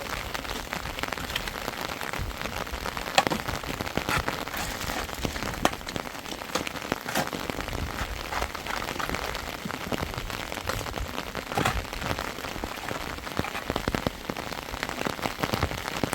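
Heavy rain falling steadily, with many separate sharp drop hits standing out irregularly throughout.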